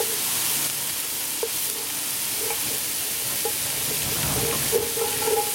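Chopped onions and bacon frying with a steady sizzle in a hot cast-iron Dutch oven, stirred with a wooden spoon.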